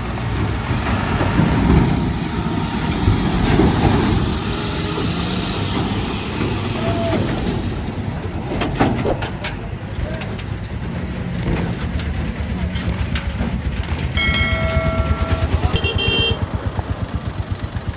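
Heavy truck engines running in a loud, steady low rumble. A vehicle horn sounds for about a second and a half near the end, followed by a second, shorter honk.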